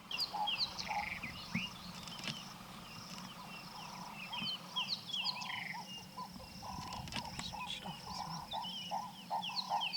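Birds chirping and calling with many short sliding high notes, joined about halfway through by a quick run of repeated short lower calls.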